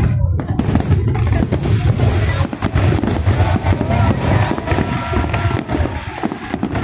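Aerial fireworks going off in a dense barrage: many overlapping shell bursts and crackles over a steady low rumble.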